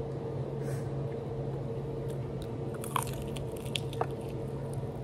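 Chewing and biting into honey hot chicken wings, with a few small sharp crunches about three and four seconds in, over a steady low hum.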